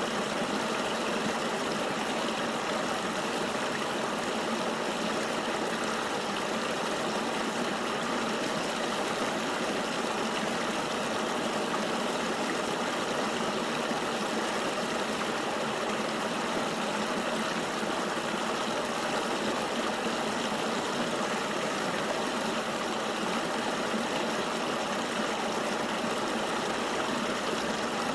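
Flowing river water: a steady, even rush of water with no change in level.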